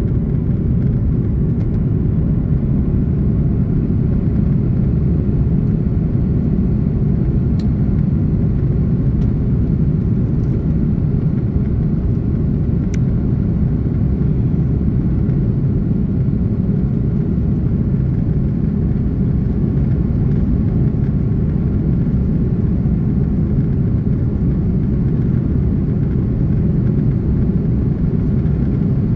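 Steady, loud rumble of an Airbus A330-300's engines and airflow heard inside the passenger cabin, even throughout with no rise or fall.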